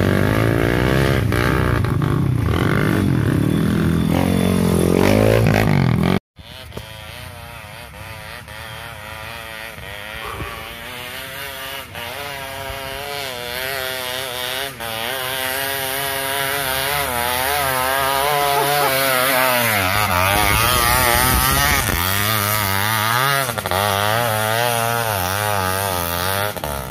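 Off-road trail motorcycle engine revving up and down as it is ridden. There is a sudden cut about six seconds in, after which the engine's pitch wavers quickly with the throttle and slowly grows louder.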